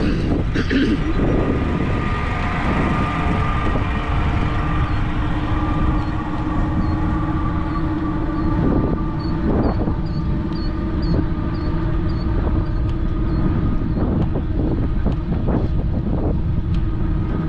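Wind buffeting the microphone and tyre noise from a fat-tire electric bike riding along, a steady loud rumble with a steady hum running underneath.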